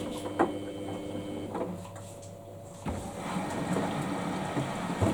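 Samsung washing machine partway through a Daily Wash 30 cycle: its motor hum stops about a second and a half in, and after a short pause the drum starts turning again with a knock and the sound of the tumbling wash.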